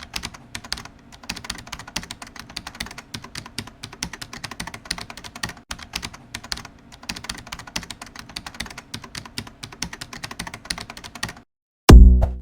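Rapid, quiet clicking and rattling of small plastic LEGO pieces being handled and snapped together; it stops about eleven seconds in. Loud electronic music with a beat starts just before the end.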